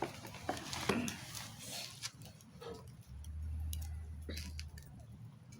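A small home wood fire crackling: scattered clicks and pops, with a low rumble for a second or two in the middle.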